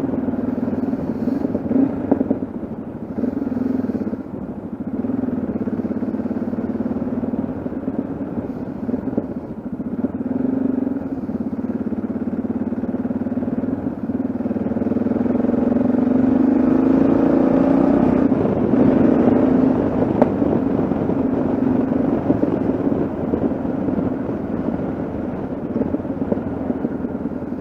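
Yamaha XT660Z Ténéré's single-cylinder engine running while the bike is ridden along the road. About halfway through the revs climb, then drop back.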